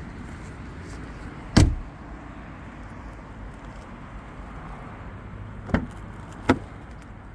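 A car door shut with one solid thud about a second and a half in, then two lighter, sharper knocks near the end, over a steady low background hum.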